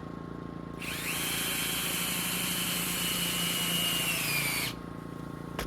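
Power drill driving a screw into a wooden block: a steady motor whine for about four seconds whose pitch sags slightly just before it stops as the screw seats. A single sharp click follows near the end.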